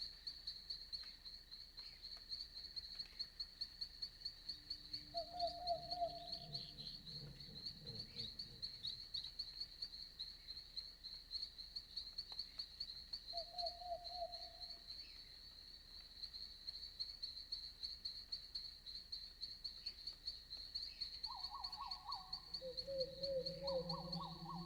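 Night forest ambience: insects chirp in a fast, steady pulse throughout. Short low animal calls come about five seconds in and again around fourteen seconds, with a cluster of calls near the end. A low steady drone comes in near the end.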